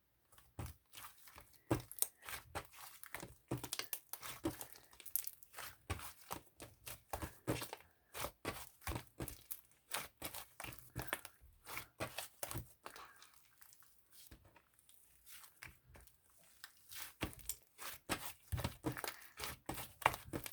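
Close-up crinkling and rustling, a dense run of small crackles that thins out for a couple of seconds in the middle.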